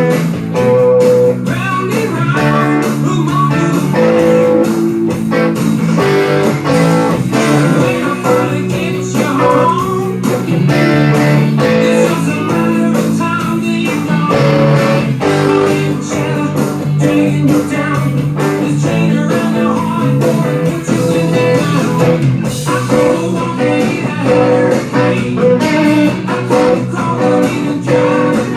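Guitar-driven blues-rock band recording: electric guitars over bass and a steady drum beat, with bending guitar notes.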